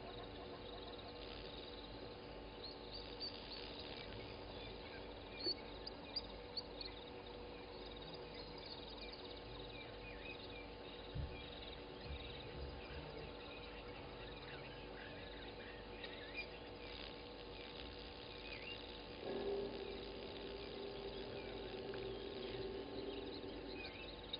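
Early-morning animal chorus at an African bush waterhole: a steady mix of calls, likely frogs and insects, with many short high bird chirps over it. A louder low call sets in about 19 seconds in and holds for a few seconds.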